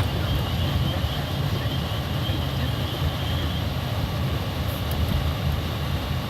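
Steady low rumble of a car driving on snow-covered roads, heard from inside the cabin.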